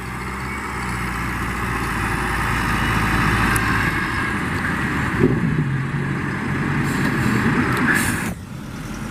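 Tractor engine running under load while pushing a launch boat into the surf, with a broad rushing noise over it that builds over the first few seconds. The sound drops off sharply near the end.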